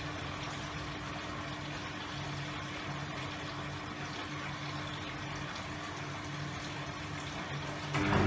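Hoover Electra 535 front-loading washing machine in its opening fill and tumble: a steady wash of water noise with a constant hum, and a lower motor drone that comes and goes every second or two as the drum turns. The sound jumps louder right at the end.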